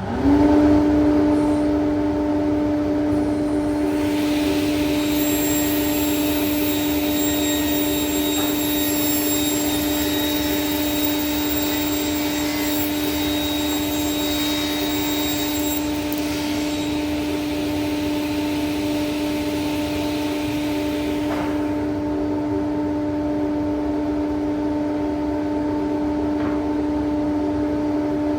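A motor starts, spins up quickly and runs at a steady pitch. Between about four and seventeen seconds a harsher hiss rides over it, then eases off.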